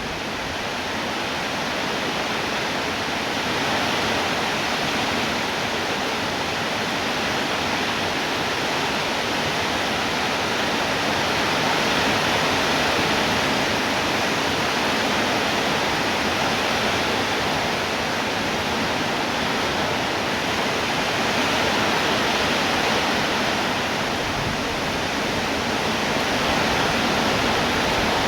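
Rain falling steadily, an even hiss without separate drops standing out, swelling slightly in level now and then.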